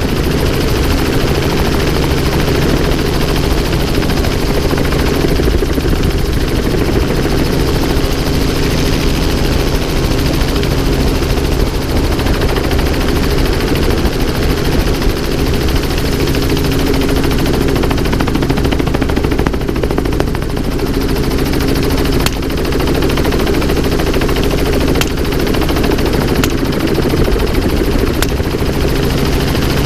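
Helicopter running steadily, its rotor and engine noise loud and constant. A few sharp cracks cut through it in the second half.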